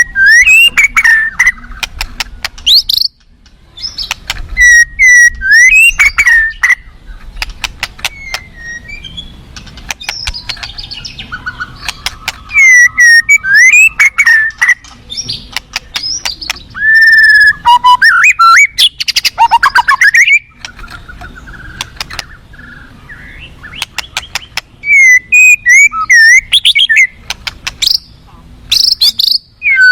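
White-rumped shama (murai batu) singing: loud bursts of varied, rapid whistled phrases mixed with sharp clicks and trills, each burst lasting a few seconds and separated by short pauses.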